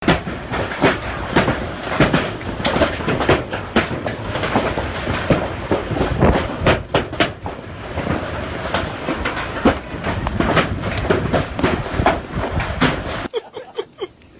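Loud, continuous roar of severe storm wind, peppered throughout with sharp knocks and buffets, which cuts off suddenly about 13 seconds in.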